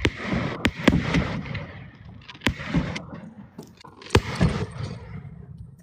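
Aerial fireworks shells bursting: a series of sharp bangs with crackling between them, heard from inside a car.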